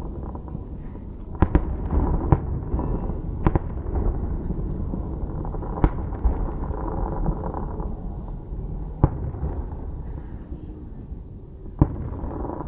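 Fireworks going off: about seven sharp bangs at irregular intervals, two close together about a second and a half in, with a steady low rumble between them.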